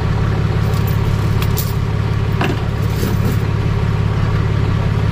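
Vehicle engine running steadily with a low, even hum, and a couple of faint clicks in the middle.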